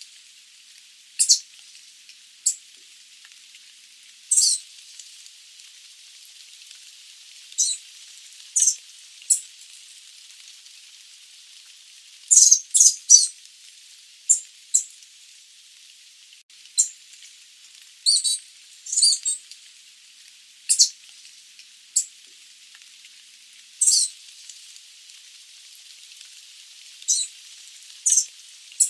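Sooty babbler giving short, high-pitched chipping calls at irregular intervals, sometimes two or three in quick succession, over a steady hiss.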